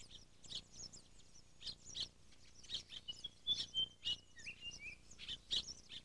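Small birds chirping quietly in short, quick calls, with a few thin whistled notes about three to four seconds in.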